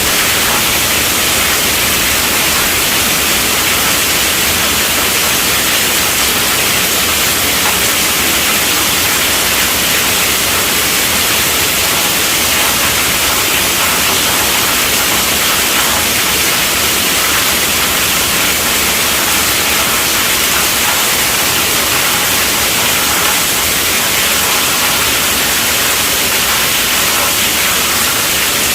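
Heavy rain drumming on a tent roof: a dense, steady hiss that stays even throughout.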